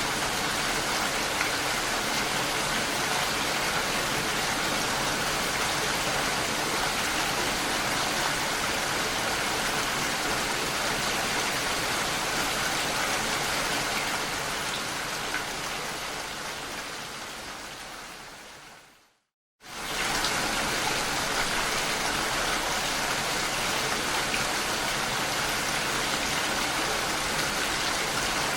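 Steady rain falling, an even hiss. About two-thirds through it fades out over several seconds to a moment of silence, then comes straight back in at full level.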